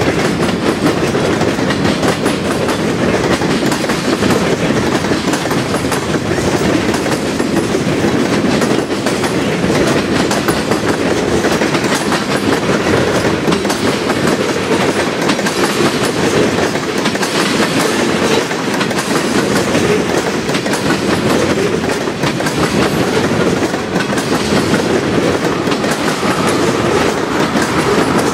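Freight train of tank cars and covered hoppers rolling past at close range: steel wheels clicking and clattering over the rail joints, loud and steady.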